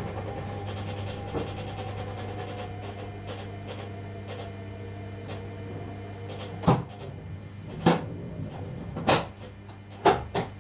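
Electric train slowing to a stop: a faint traction whine falls in pitch over a steady electrical hum. In the second half come five sharp clunks about a second apart.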